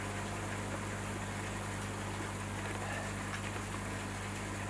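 Steady low hum over an even, faint hiss, with a few faint light ticks about three seconds in.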